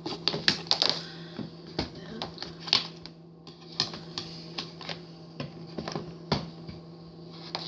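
Irregular light clicks and taps of small hard objects being handled and set down, over a steady low hum.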